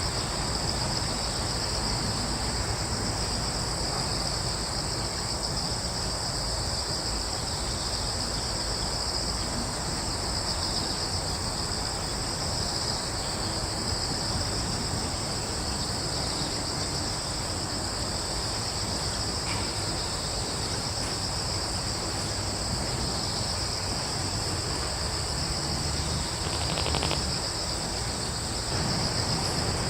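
A steady, unbroken chorus of crickets trilling high, over a low, even background rumble.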